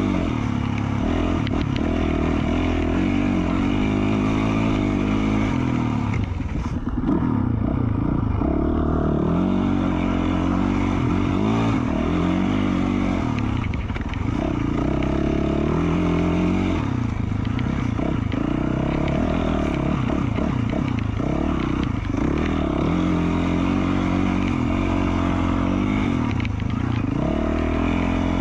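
2020 Yamaha YZ450F's single-cylinder four-stroke engine through an FMF Q4 slip-on exhaust, revving up and down over and over as the throttle is opened and shut while riding. The engine eases off briefly about seven seconds in.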